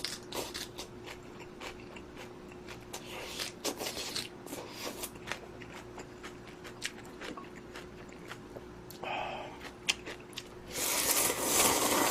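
Close-miked eating of instant budae-jjigae ramen: chewing with many small wet mouth clicks, then a louder rush, as of slurping, lasting about a second and a half near the end. A faint steady hum sits under it.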